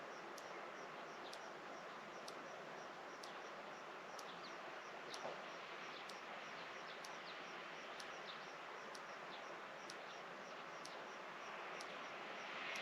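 Quiet rural outdoor ambience: a steady soft hiss with small high chirps repeating a few times a second, a few short falling calls, and a faint click about once a second.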